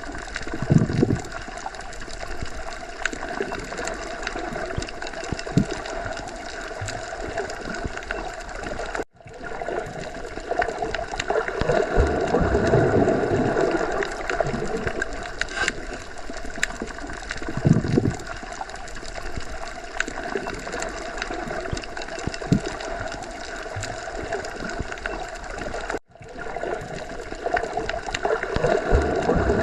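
Underwater ocean ambience: a steady, muffled wash of moving water with gurgling and occasional low swells. It drops out for an instant twice, about nine seconds in and again near the end.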